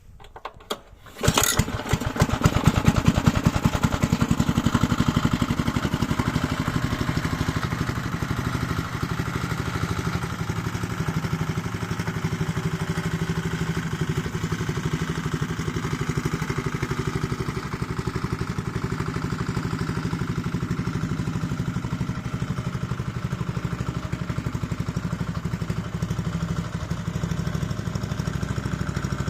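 Small single-cylinder engine of a 1984 Honda F600 tiller, freshly rebuilt, catching about a second in after a few rattling knocks, running loudest for a couple of seconds and then settling into steady running.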